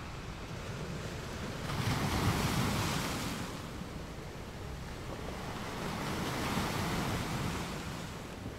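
Wind on the microphone over choppy sea water washing, swelling louder about two seconds in and again around six seconds in.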